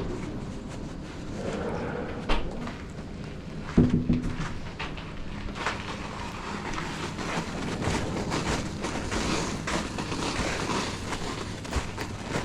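Mountain bike moving over snow: an irregular stream of crunches, clicks and knocks over a steady noisy hiss.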